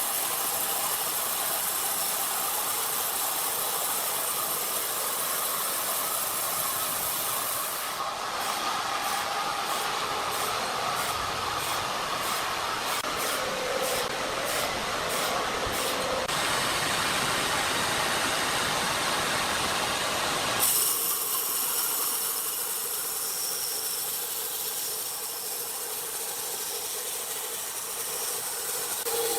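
Sawmill machinery running steadily with a dense hissing noise and faint engine tones. The sound changes abruptly three times, and a quick ticking runs through the middle part.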